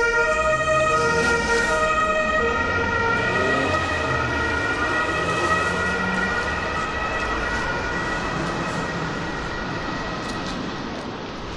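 Two-tone emergency vehicle siren alternating between a high and a low note, fading away within the first few seconds, followed by steady street traffic noise.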